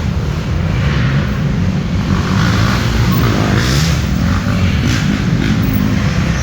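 Several dirt bike engines running and revving as riders race past, a loud steady rumble with a few rising and falling engine notes.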